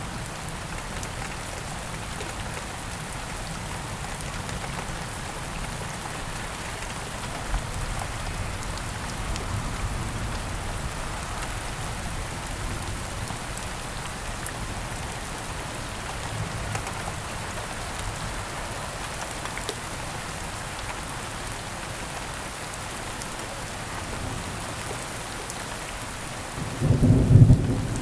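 Heavy rain falling steadily, with a loud burst of thunder near the end.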